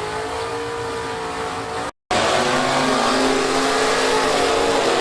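Drag race car engines running, holding a fairly steady pitch with slight rises and falls. The sound cuts out briefly about two seconds in, then comes back louder.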